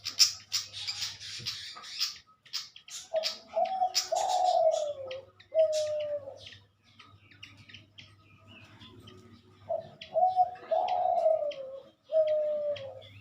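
A dove cooing twice, each phrase a few short low notes followed by a longer coo that falls in pitch. Before the first phrase, small birds give quick high chirps and clicks.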